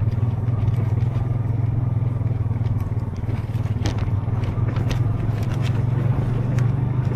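ATV engine running at a steady speed, a constant low drone, with scattered sharp clicks and scrapes over it.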